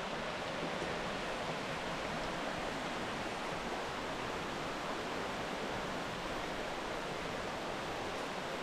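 Waterfall on a creek pouring, a steady rush of falling water.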